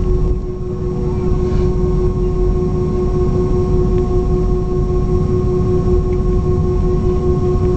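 Steady cabin noise inside an Airbus A321 on the ground after landing: a low rumble with several constant whining tones over it.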